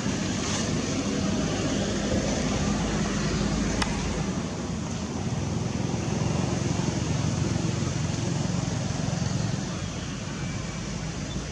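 Steady outdoor background noise with a low rumble throughout, no distinct animal calls standing out.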